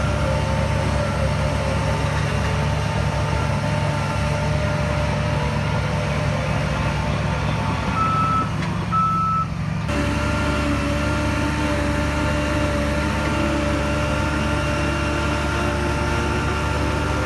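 Heavy diesel earthmoving machinery running steadily, with the short repeated beeps of a reversing alarm. The sound changes abruptly about ten seconds in.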